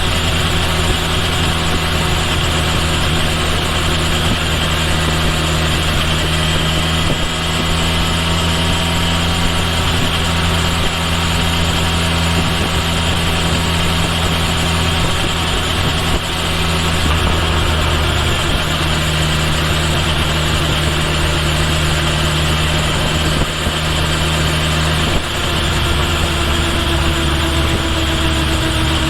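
Kawasaki Ninja H2 SX's supercharged inline-four engine running at a near-steady pace under a steady wash of road and wind noise, heard from a microphone beside the rear turn signal. The engine note shifts only slightly, with a few brief dips in level.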